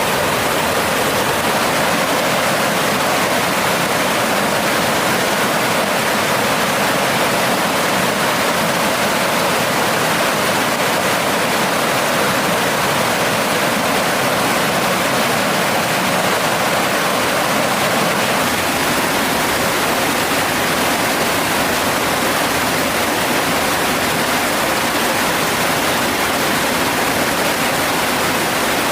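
Mountain stream water rushing, a loud, steady, unbroken noise.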